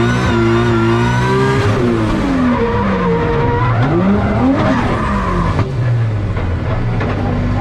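2JZ-engined Toyota GR Supra drift car running hard with its tyres skidding; the engine note holds, drops about two seconds in, then dips and climbs again as the throttle is worked.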